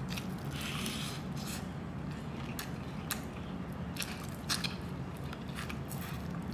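A person biting and chewing crispy deep-fried pork belly (lechon kawali), the crackling skin crunching in irregular sharp clicks.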